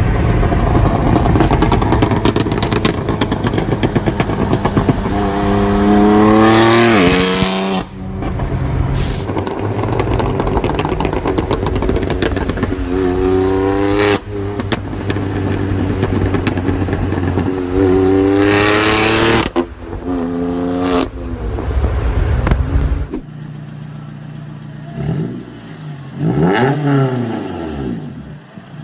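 Straight-piped, modified performance car engines revving hard in repeated sharp climbs, their exhausts crackling and popping throughout. After abrupt changes between engines, the last few seconds hold a quieter engine whose pitch swings up and down.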